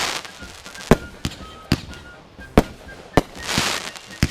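Fireworks going off: a string of sharp bangs, about five in four seconds, with a burst of hissing crackle a little after three seconds in.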